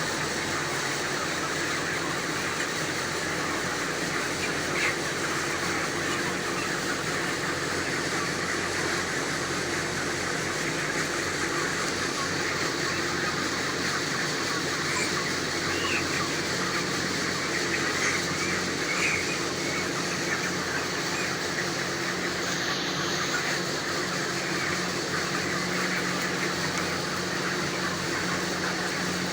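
A shed full of 33-day-old broiler chickens, many birds calling in short chirps over a steady machine hum.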